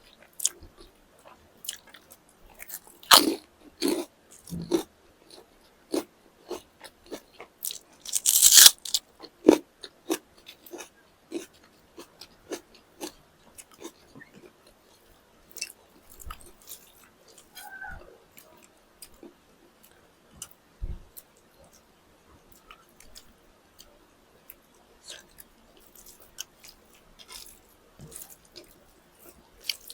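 Close-miked eating of chicken drumsticks and rice: a run of bites, crunches and chewing clicks. The loudest crunches come about three to five seconds in and again around eight to nine seconds, followed by quieter, sparser chewing.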